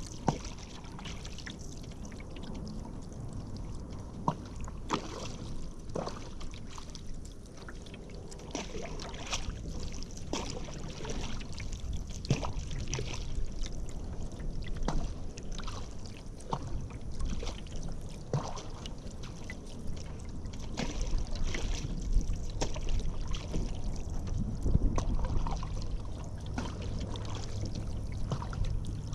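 Paddle strokes in river water: repeated dips and splashes with drips off the blade, roughly one to two a second. A low rumble comes in during the last third.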